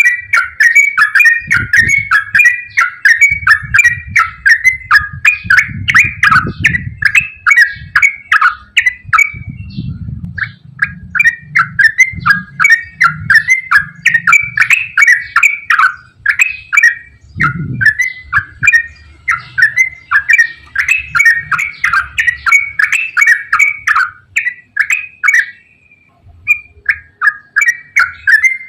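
Yellow-vented bulbul singing a long, continuous run of rapid chirping phrases, with a short break about a third of the way in and another near the end.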